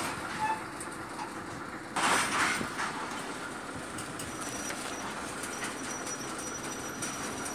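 Freight train of grain hopper wagons rolling slowly past, the wheels running over the rails with a steady rumble and clatter. A louder burst of noise comes about two seconds in, and a faint thin high whine comes in from about four seconds on.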